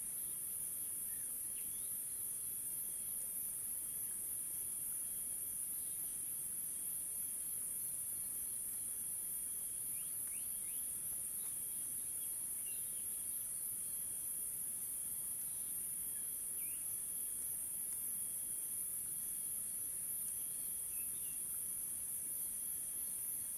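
A steady, high-pitched chorus of insects, crickets or cicadas, running without a break, with a few short faint bird chirps here and there.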